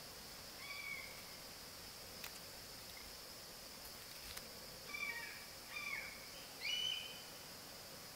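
A few short bird calls over a steady high insect drone, with a couple of faint clicks in between.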